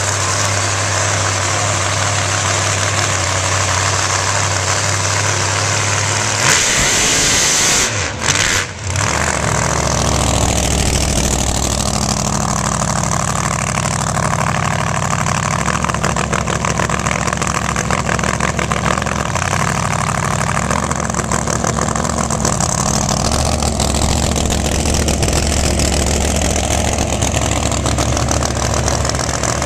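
Supercharged methanol-burning big-block Chevy drag car engine idling. About six seconds in it gets a short, loud burst of revs, dips briefly, then settles back to a steady idle.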